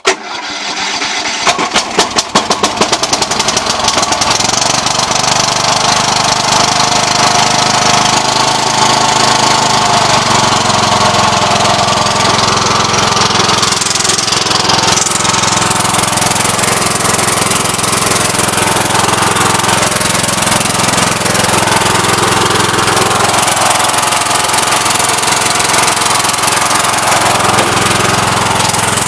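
20-horsepower Kohler engine of a Toro garden tractor starting cold after a week sitting in the rain: it fires up suddenly, runs unevenly for the first few seconds, then settles into a steady run.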